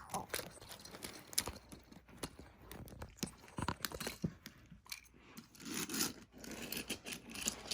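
Irregular light clicks and knocks with some soft scraping, as of small hard objects being handled.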